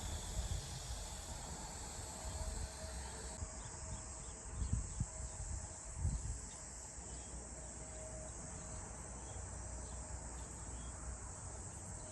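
Insects chirping steadily in the background as a high, even trill, with a couple of soft low thumps a few seconds in.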